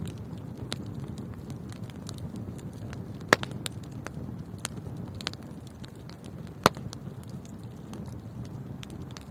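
Fire burning in a fireplace, crackling with scattered small clicks over a steady low rush, and two sharp pops, one about a third of the way in and one about two-thirds in.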